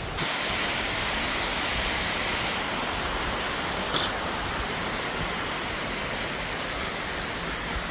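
Waterfall rushing, a steady even roar of falling water, with a brief click about four seconds in.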